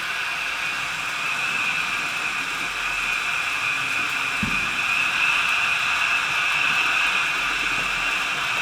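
HO scale model trains running on the layout: a steady whir of the locomotive motors and wheels on the track. There is a brief low bump about four and a half seconds in.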